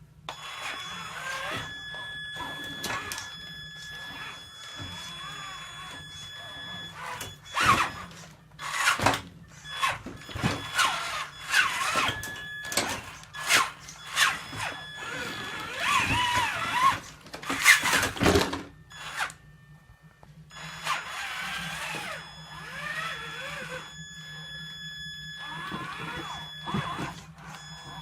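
Traxxas Summit RC truck's electric motor whining, its pitch rising and falling with the throttle, over a steady electric hum, with repeated knocks and clatter as the truck climbs over bricks.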